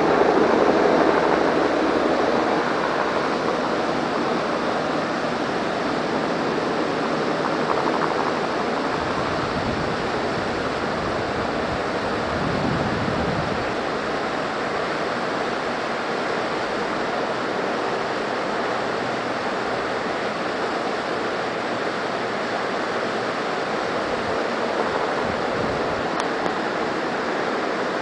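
Helicopter rotor noise and downwash heard as a steady, loud rushing, strongest in the first couple of seconds and then settling to an even level.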